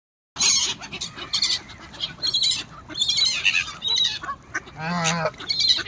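Birds calling: many short, harsh calls one after another, cutting in abruptly just after the start, with one longer, lower call about five seconds in.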